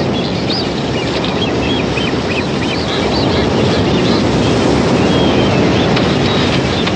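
A flock of blue-footed boobies calling in many short, high whistles, some rising, over a steady rushing noise.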